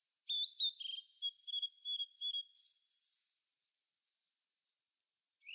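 Small birds chirping: a quick series of short, high chirps and twitters for about three seconds, then they stop.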